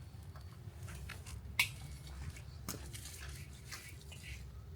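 Wood campfire crackling, with one sharp pop about one and a half seconds in and a smaller one a second later, over a low steady rumble.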